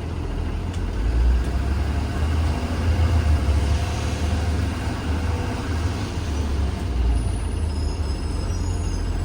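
A 2020 Blue Bird Vision school bus under way, heard from inside the cabin: steady low engine and road rumble, with a few faint high-pitched squeaks near the end.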